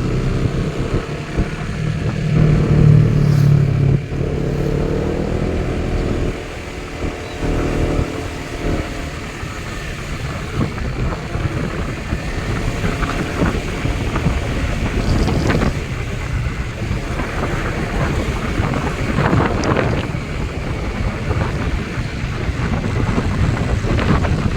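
A motorboat engine running steadily, with wind buffeting the microphone; the engine's pitched hum is clearest in the first nine seconds or so, after which rushing wind and water noise take over.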